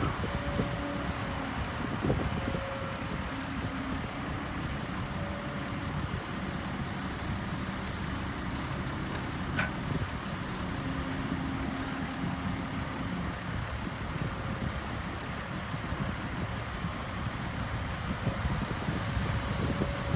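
Diesel engines of heavy earthmoving machinery running, a steady low rumble with a few light clanks.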